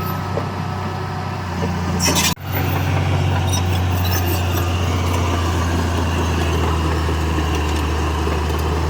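Heavy diesel engine of earthmoving machinery running steadily with a deep, even hum. A little after two seconds in there is a brief hiss, then a sudden cut, and the same steady running resumes.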